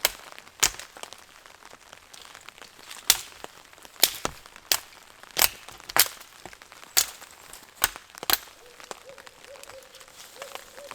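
Dry dead branches being snapped by hand for kindling: about a dozen sharp, separate cracks at an uneven pace. Near the end an owl calls faintly, a wavering hoot.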